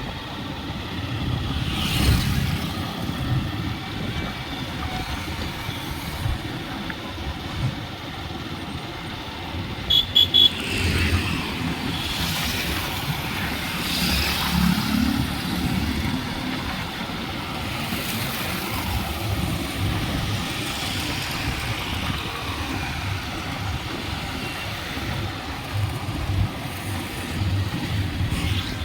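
Road traffic passing, vehicles swelling and fading one after another over a steady rumble. About ten seconds in there are three short high beeps in quick succession.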